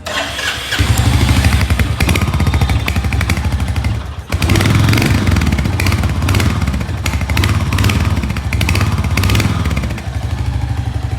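Royal Enfield Hunter 350's single-cylinder air-oil-cooled 350 cc engine running. The exhaust sound comes in under a second in, breaks off briefly about four seconds in, then carries on.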